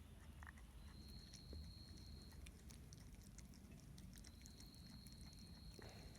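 Faint, irregular clicks of a common brushtail possum chewing bird seed and sultana. A faint steady high-pitched tone sounds twice, for about a second and a half each, in the background.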